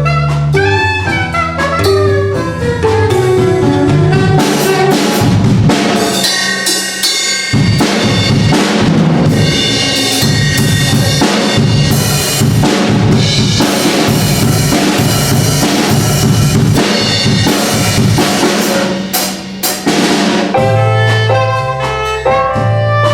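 Live band music: a melodic line over bass and drums gives way about seven seconds in to a drum kit playing alone, dense fast strokes on snare, bass drum and cymbals, and the band comes back in near the end.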